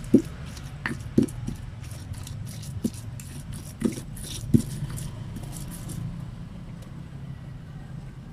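Spice paste with keluak being ground by hand in a stone mortar and pestle (cobek and ulekan): a rubbing, grinding sound with irregular sharp knocks of pestle on mortar, about six in the first five seconds, then mostly rubbing.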